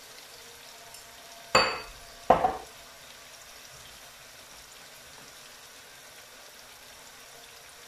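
Onion-tomato masala frying in a clay casserole, a faint steady sizzle. About a second and a half in, a spoon clinks sharply against a container, then again just under a second later. The first clink rings briefly.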